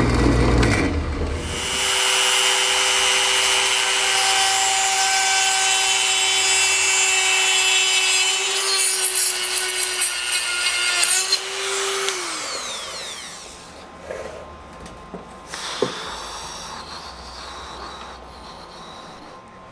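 An electric power tool runs with a steady motor tone while it works the piece. About twelve seconds in it is switched off and winds down with a falling whine, followed by quieter handling and a sharp click.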